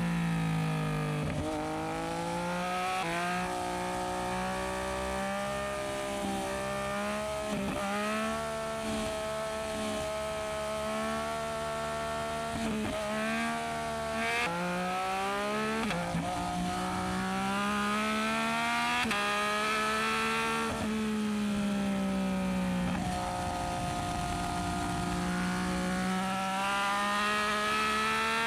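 Yamaha MT-09SP's inline three-cylinder engine through an aftermarket Dominator exhaust, riding under load. The engine pitch climbs through the revs and drops sharply at each gear change or roll-off, many times over, with a few stretches held steady at cruising revs.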